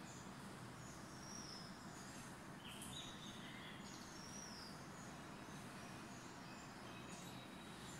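Quiet room tone with faint bird chirps coming in now and then, short high calls, some falling in pitch.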